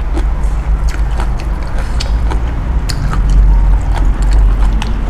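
Close-miked chewing and mouth sounds of someone eating a bowl of noodles, with many small irregular clicks over a steady low hum.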